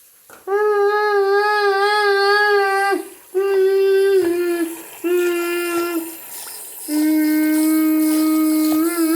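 A slow, wordless tune of long held notes, hummed or sung, or played on a simple wind instrument. The first note wavers with vibrato for about two and a half seconds, and the following notes step lower in pitch, the last held for about two seconds.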